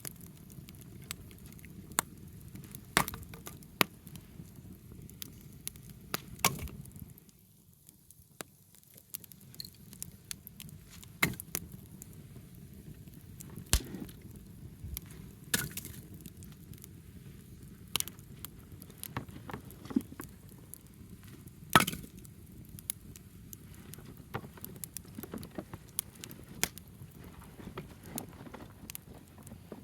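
Wood fire crackling, with sharp pops at irregular intervals over a steady low noise of burning; the loudest pop comes about 22 seconds in.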